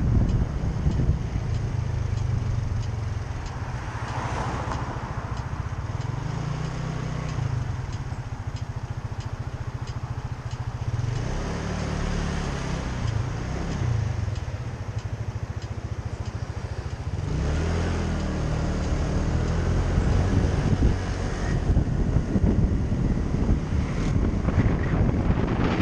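Motorcycle engine running under way, its pitch rising and falling several times as the bike speeds up and slows.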